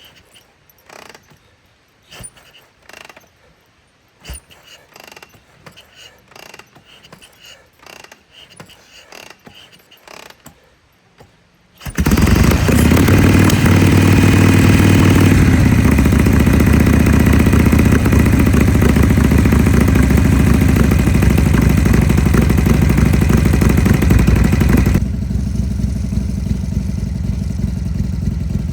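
Faint scattered clicks and knocks, then about twelve seconds in a Harley-Davidson Shovelhead V-twin fires up suddenly and runs loud, settling a few seconds later. It drops noticeably in level near the end.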